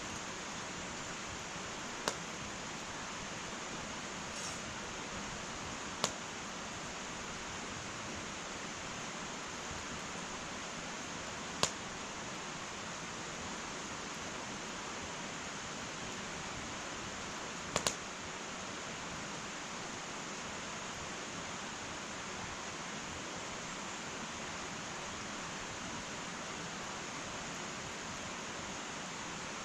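Wood fire burning in an irori sunken hearth: a steady hiss with a few sharp wood crackles spread out, the last one a quick double pop.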